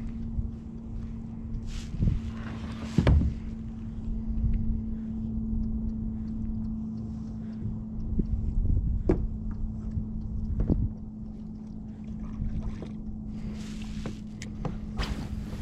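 Handling noise on a kayak: a few sharp knocks and clunks against the hull over a low wind rumble, with a steady low hum underneath.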